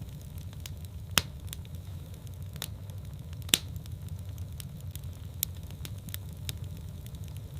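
Wood fire in a fireplace crackling: a steady low rumble of flames with scattered small pops, and two sharper, louder pops, about a second in and again about three and a half seconds in.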